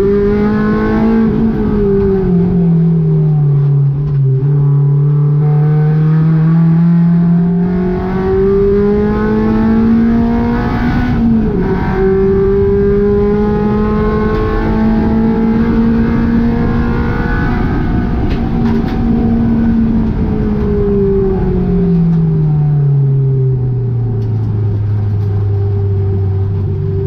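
Honda K20 four-cylinder engine running hard, its pitch rising and falling slowly with throttle, over a steady rush of road and wind noise. About three quarters of the way through, the pitch falls and settles at a lower, steady note.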